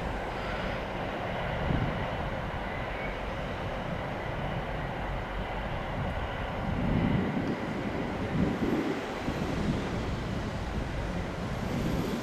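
A train running through the station: a steady rumble, with heavier low rumbling in several swells from about seven seconds in.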